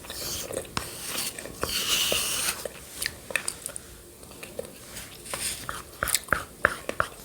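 Close-miked eating sounds of yogurt with shredded coconut: chewing with wet lip and tongue clicks.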